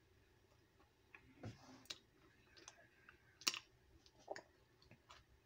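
Faint mouth sounds of biting and chewing a Pop-Tart: a few sharp clicks, the loudest about three and a half seconds in with the bite into the pastry.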